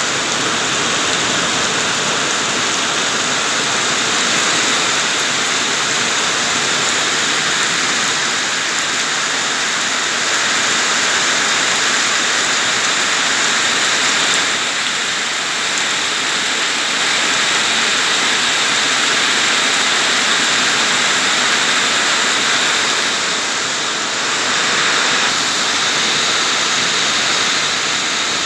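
Heavy rain pouring onto flooded ground and pavement, a loud, steady hiss of dense falling drops.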